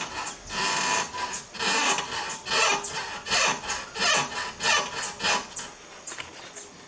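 Front suspension of a VW Beetle (Fusca) squeaking over and over, about eight creaks in a steady rhythm that stop near the end. It is a dry creak (rangido), not a knock, which set in after the car drove through standing water.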